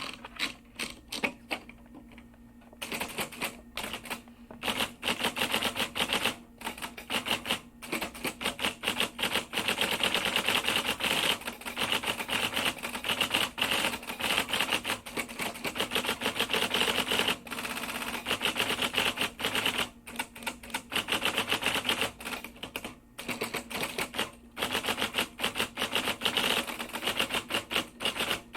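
Typewriter keys being struck in fast runs of typing, broken by a few short pauses, over a faint low steady hum.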